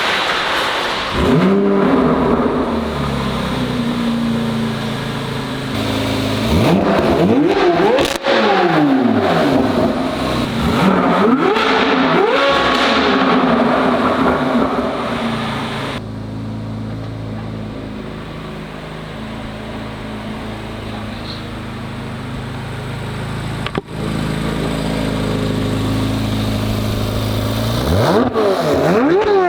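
Chevrolet C8 Corvette Z06's flat-plane-crank V8 through an AWE exhaust, revving hard with the pitch rising and dropping repeatedly through gear changes. A steadier, quieter stretch of engine sound comes in about halfway through, with the revving returning near the end.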